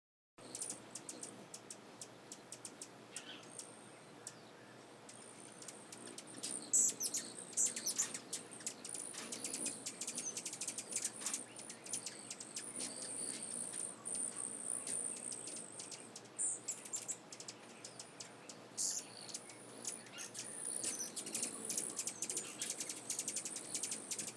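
Birds chirping: a dense run of short, high-pitched tweets over a near-continuous high trill.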